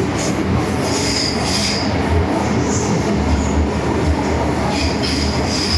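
MTR M-Train electric multiple unit running at speed in the tunnel, with steady rumble and wheel noise heard from inside the car. A high wheel squeal rises briefly about a second in and again near the end.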